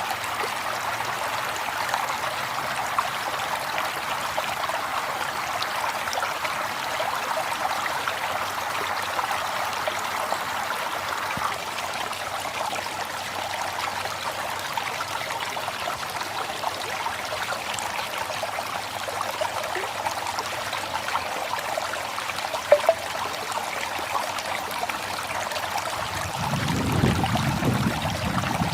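River water flowing steadily. About two seconds before the end a low rumble comes in over it.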